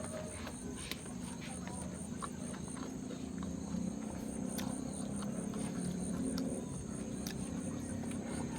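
Steady high-pitched trilling of crickets or similar insects, with a low background hum and a few faint scattered clicks.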